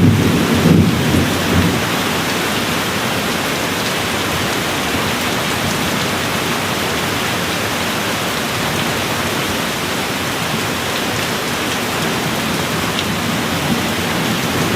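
Steady rain falling, with a low rumble of thunder dying away in the first second or two.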